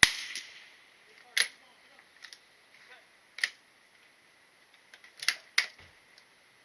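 A gunshot at a shooting range, ringing out briefly, followed by four more sharp cracks over the next five seconds, with lighter clicks between them.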